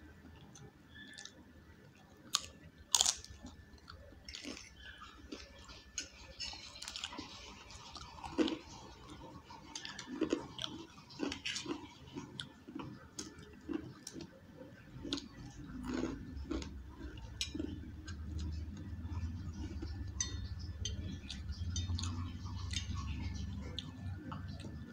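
Close-up chewing with many short, sharp crunches of crisp fried sabudana papad eaten with noodles, the loudest crunch about three seconds in. A low steady hum comes up under the chewing about halfway through.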